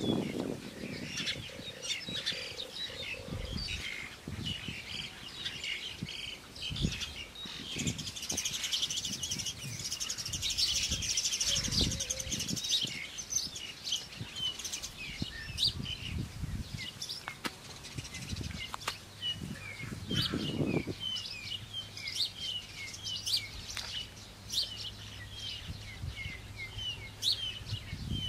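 Wild birds chirping and calling throughout, busiest for a few seconds partway through, with occasional low thumps.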